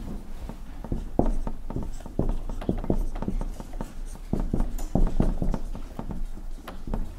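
Marker writing on a whiteboard: an irregular run of short strokes and taps, a few each second, as words are written out by hand.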